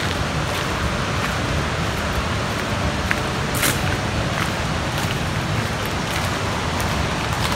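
Waterfall rushing, a steady, even roar of falling water, with a few faint ticks on top.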